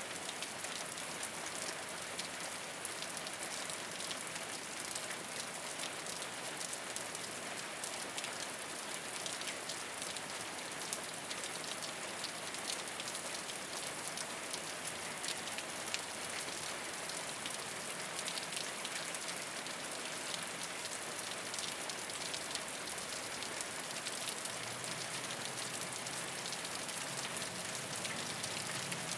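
Steady rain falling on a rooftop, an even hiss dense with the ticks of individual drops.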